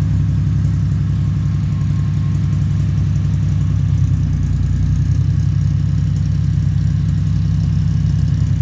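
1969 Jeep CJ5's engine idling steadily and smoothly.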